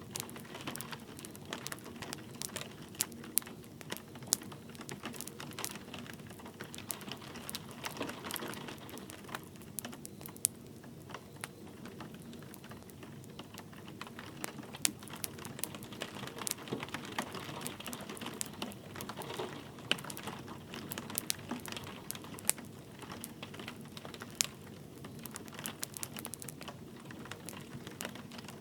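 Wood fire crackling, with frequent irregular sharp pops and snaps, over a steady hiss of light rain.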